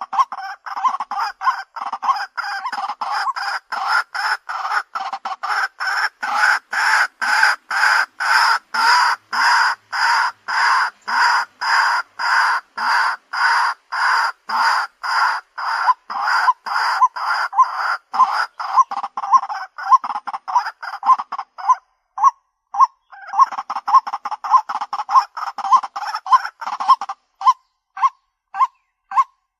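White-breasted waterhen calling, a long unbroken series of repeated croaking notes at about three a second. The series breaks off briefly about three quarters of the way through, then resumes as sparser, shorter notes near the end.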